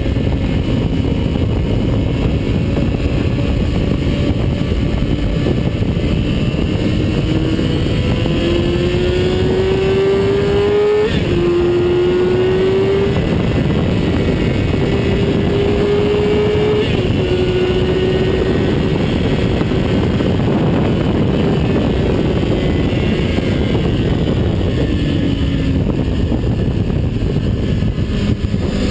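Engine of a vehicle lapping a race track, heard onboard under heavy wind noise. It pulls up through the revs, shifts up about eleven seconds in and again a few seconds later, holds high revs, then eases off near the end.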